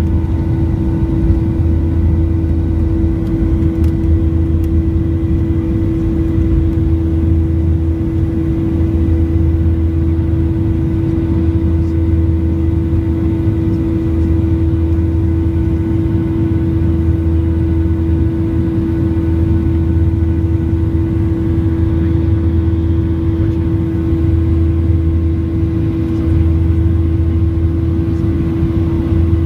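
Steady drone of a Boeing 737-800's CFM56 jet engines heard inside the cabin: a constant hum with a low throb that comes and goes every few seconds.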